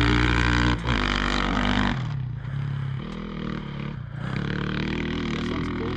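Yamaha YZ450 dirt bike engine running hard at high revs, with a brief dip about a second in, then dropping to a quieter, lower running about two seconds in as the throttle comes off.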